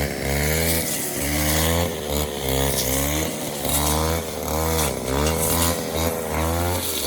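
Small petrol engine of a 25-year-old Robin grass cutter running and being revved up and down again and again, its pitch rising and falling every second or so; it runs normally, with full power.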